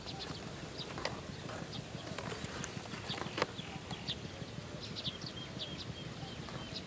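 Birds chirping in many short, high notes, with a few sharp clicks and a steady low background noise.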